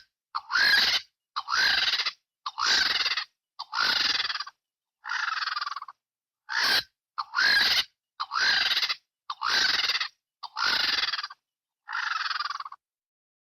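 A fictional bird creature's call sound effect, repeated about eleven times with dead-silent gaps between: each call a short, harsh, bird-like squawk lasting half a second to a second, several of them rising in pitch.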